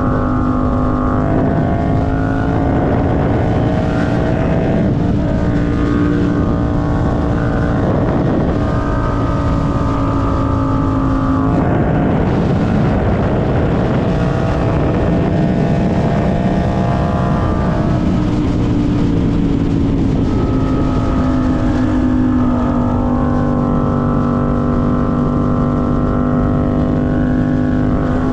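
Motorcycle engine running under way, loud and continuous, its pitch shifting up and down several times with throttle and gear changes.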